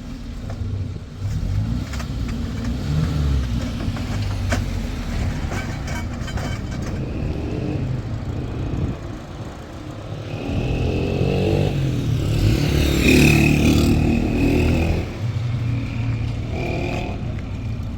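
Car engine and road noise in street traffic. About ten seconds in, a louder vehicle swells up for several seconds, then the sound settles back to the steady rumble.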